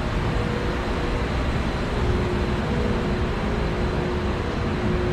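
Steady low rumbling noise with a faint, steady hum over it and no distinct events.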